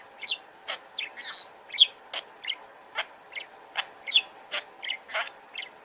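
A parrot calling in a quick series of short chirps and squawks, about two a second.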